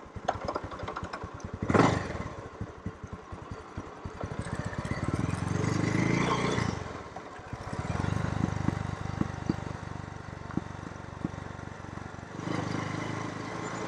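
Motorcycle engine running while being ridden, with a brief loud rush of noise just under two seconds in and the engine sound swelling louder around six seconds in.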